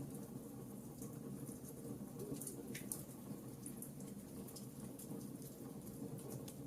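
Wood logs burning in a fireplace: frequent small crackles and pops over a faint, steady low rush of the fire. One pop is a little sharper than the rest.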